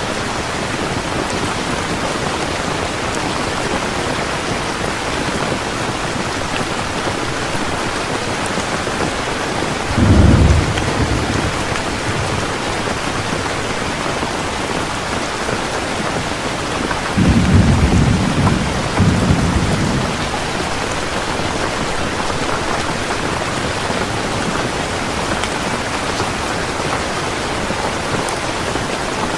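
Heavy rain falling steadily, with thunder rumbling twice: a short clap about ten seconds in and a longer rolling peal around the two-thirds mark.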